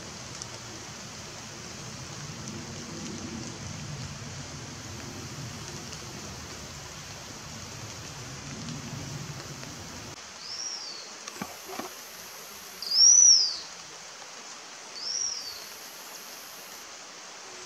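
Slaty-backed chat-tyrant giving three high, thin whistled calls, each rising then falling, spaced about two seconds apart, the loudest in the middle, over a steady background hiss. A low rumble under the hiss drops out about ten seconds in, just before the first call.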